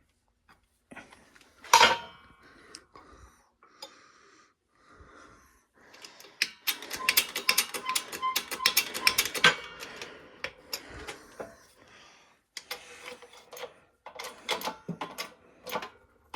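Shop press being worked to force a steering-shaft coupler onto the shaft: metallic clicking and creaking, with a loud clank about two seconds in and a fast run of rapid clicks in the middle.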